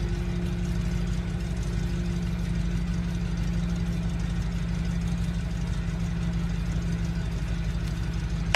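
BMW 328i engine idling steadily with an even low pulse; the engine is one being diagnosed for a misfire and rough running.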